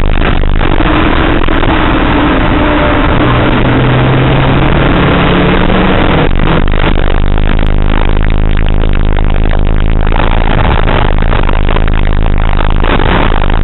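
Car engine running hard at track pace, heard from inside the cabin over a constant rush of road and wind noise. Its note changes abruptly about six seconds in, as with a gear change or lift.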